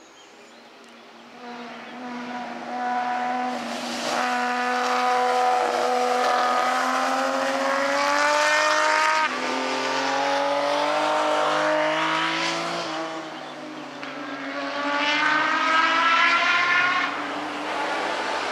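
Race car engines at full throttle, the note climbing steadily in pitch and dropping sharply at each gear change, about twice, then climbing again near the end as the sound swells and fades.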